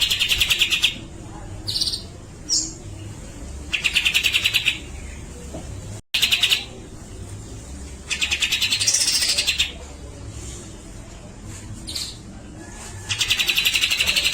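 Cucak jenggot (grey-cheeked bulbul) calling: four harsh, rapid rattling phrases a few seconds apart, each lasting a second or so, with short single notes in between and a rising whistled note in the third phrase.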